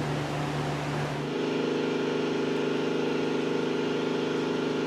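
A steady hum and hiss, then, about a second in, the Nissan Frontier's 3.3-litre V6 idling steadily and evenly, running smooth after a failed fuel injector was replaced.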